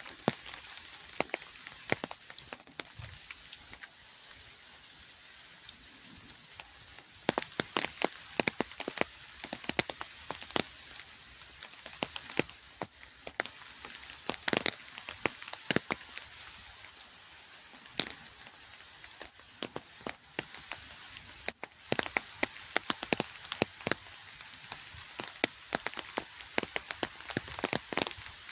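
Rain falling: a steady hiss with many sharp drops striking close by. The drops come thicker in spells about a quarter of the way in and again near the end.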